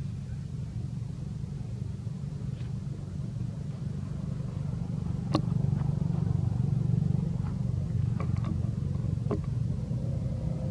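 Steady low rumble with a few short, faint clicks scattered over it, the sharpest about five seconds in.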